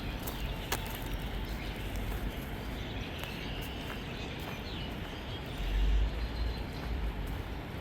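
Footsteps along a rough, weedy path, with faint bird chirps and a low rumble that swells about six seconds in.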